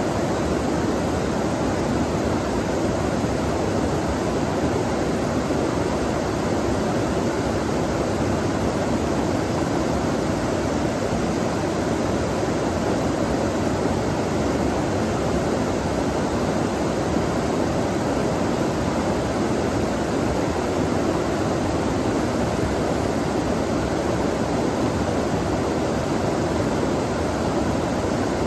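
Water flowing in a stream: a steady rushing noise without breaks.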